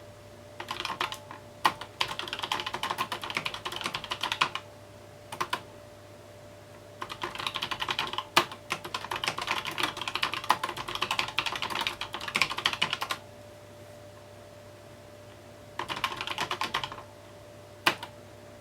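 Typing on a mechanical keyboard: quick runs of key clicks in three longer bursts, with pauses between them, and a single hard keystroke near the end.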